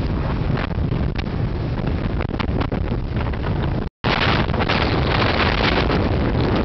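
Heavy wind buffeting on the microphone over the low rumble of a moving vehicle. The sound cuts out for a split second about four seconds in.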